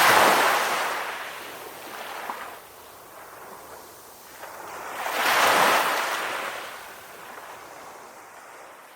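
Calm ocean waves washing in, one surging right at the start and another about five and a half seconds in, each swelling and then fading back into a softer wash.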